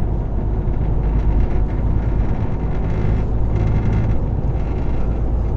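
Semi truck's diesel engine and road noise heard from inside the cab while driving: a steady low rumble.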